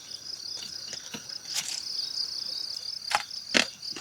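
Insects chirring in a steady, fast-pulsing high trill, with three short sharp knocks in among it.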